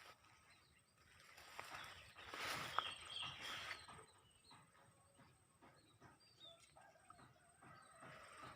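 A tame bird chirping faintly in short, scattered notes. A louder rustling swell comes about a second and a half in, with one sharp click in the middle of it.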